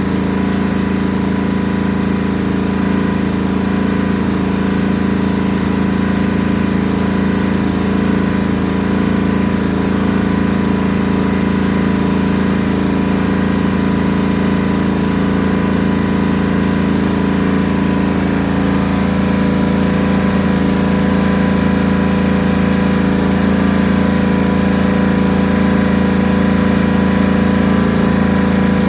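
Lawn tractor engine running steadily at one speed after a warm start, left running to charge its weak battery.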